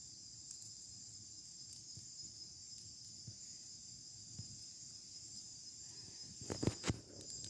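Crickets trilling steadily in a high continuous chorus. A few sharp clicks come close together about six and a half seconds in.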